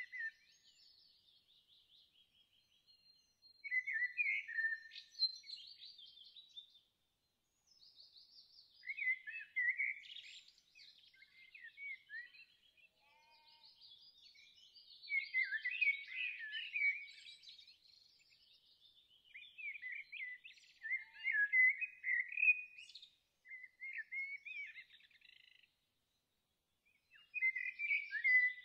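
Birdsong: phrases of quick chirps and trills that come every few seconds, separated by brief pauses.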